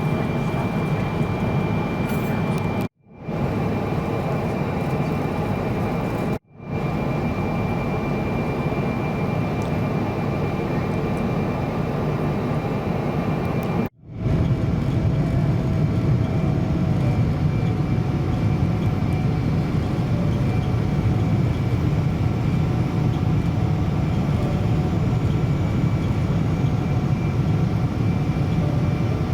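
Steady roar of air and engine noise inside the cabin of a Boeing 777-200 airliner in flight, with a faint steady whine above it. The sound cuts out abruptly three times, about three, six and fourteen seconds in, and after the last break the low rumble is slightly louder.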